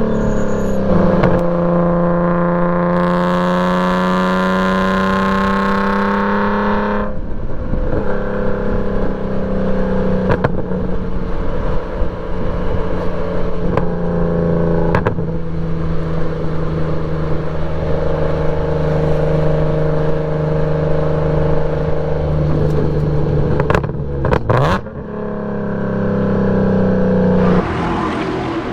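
BMW E46 M3's 3.2-litre S54 inline-six, with an aftermarket Status Gruppe muffler, pulling hard at track speed. Its pitch climbs through each gear and drops at gear changes about 7, 15 and 25 seconds in.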